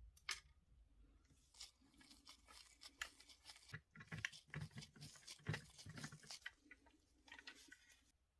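Faint handling noises: a sharp click, then a run of small scrapes, rustles and clicks of small objects being worked by hand.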